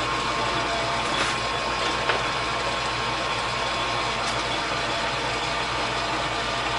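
Metal lathe running steadily with the spindle turning, a constant motor and gear hum with a faint steady whine, and a few faint ticks.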